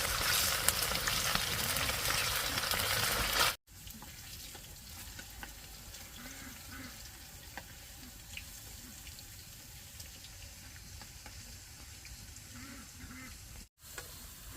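Potato chips frying in hot oil, a loud steady sizzle that cuts off abruptly about three and a half seconds in. A much quieter background follows, with a few faint soft ticks.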